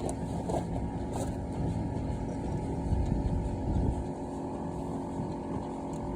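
A steady low mechanical hum with a few faint clicks in the first second or so.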